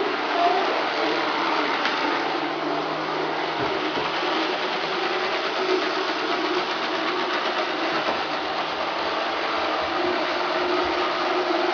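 Roomba robot vacuum running, a steady, even mechanical sound.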